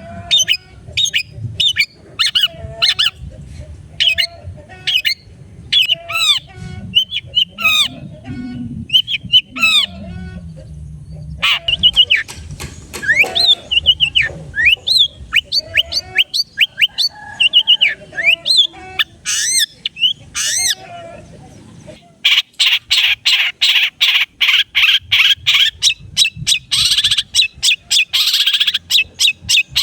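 Long-tailed shrike (cendet) in full song, a varied stream of quick chirps, sweeping whistled notes and harsh squawks. About 22 seconds in, the song changes abruptly to a fast run of harsh chattering notes.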